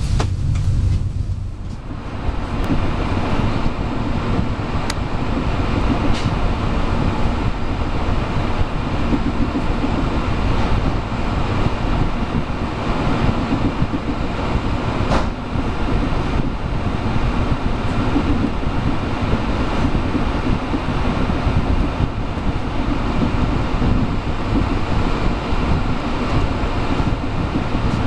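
Intercity passenger train running, heard from inside the carriage: a steady rumble of wheels on rails, with a few brief sharp clicks.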